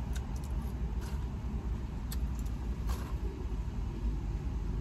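Steady low rumble of a car, with a few faint brief clicks.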